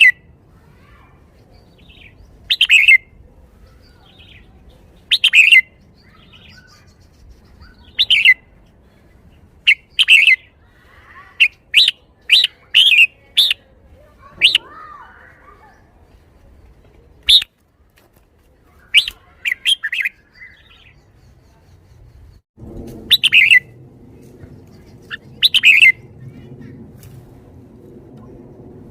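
Red-whiskered bulbul singing short, loud phrases every two to three seconds, with a quicker run of notes near the middle; the song style is what Thai fanciers call 'shaking the bottle'. A low steady hum comes in about three quarters of the way through.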